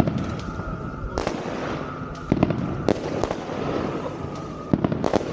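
Fireworks going off: sharp bangs every second or so, bunched together near the end, over continuous crackling.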